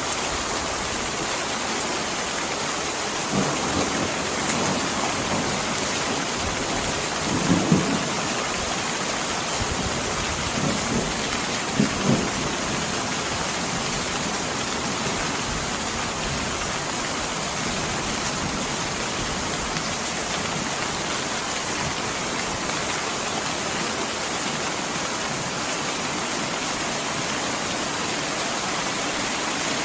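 Steady heavy rain, an even hiss. A few short low thumps stand out over it between about three and twelve seconds in.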